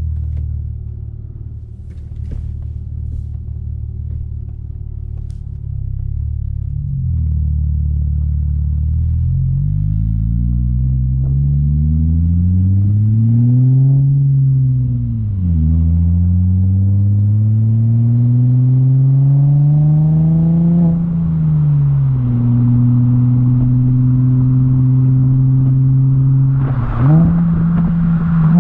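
A 2003 Audi A4 3.0 V6 running through a custom exhaust. It idles at first, then pulls away about 7 s in. The engine note rises through the gears, dropping back at upshifts about 15 s and 22 s in, then holds steady at cruise, with a short sharp rise near the end.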